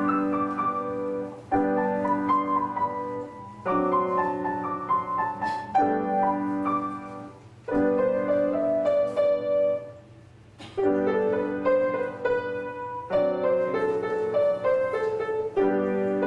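A student playing a short keyboard piece: held chords under a simple melody, in phrases of about two seconds that each start with a fresh chord, with brief gaps between phrases.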